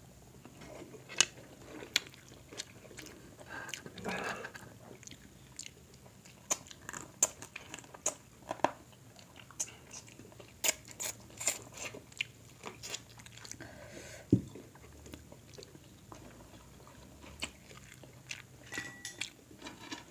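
Mukbang eating sounds: chewing, lip smacking and irregular sharp clicks and crunches as two people eat shrimp, crab and corn by hand.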